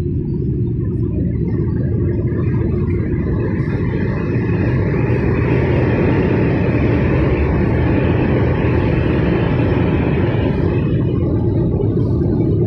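Steady low rumble of a car, with a hissing layer that swells in about two seconds in and dies away near the end.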